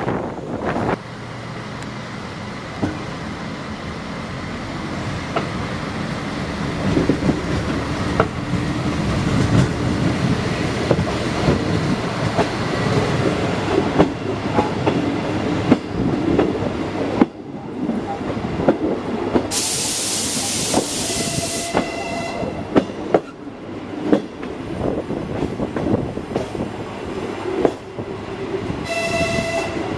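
Diesel railcar running, heard from an open window: a steady rumble of engine and wheels with repeated clicks of the wheels over rail joints. About two-thirds in comes a burst of loud hiss, followed by short high-pitched tones, which come again near the end.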